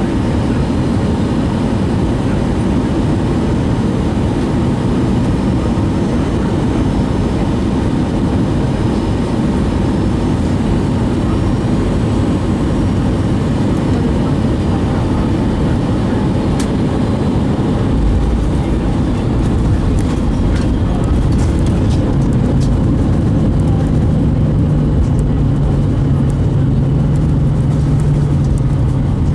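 Airbus A320 landing, heard from inside the cabin: steady engine and airflow noise. About eighteen seconds in it deepens into a low rumble, and a few seconds later a steady low hum joins it.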